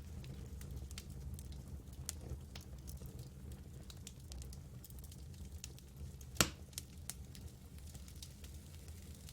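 Wood campfire crackling, with small snaps scattered throughout and one louder pop about six seconds in, over a low steady rumble.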